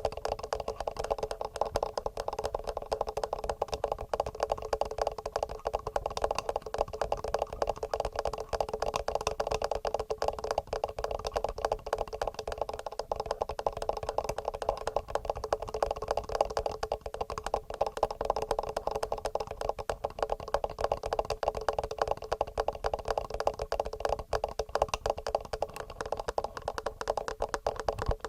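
Rapid, steady fingernail tapping on the microphones of a TASCAM handheld recorder: a dense stream of small clicks with a hollow ring from the mic close up.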